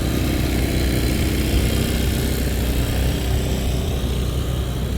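Street traffic with a motor vehicle's engine running close by, a steady low drone.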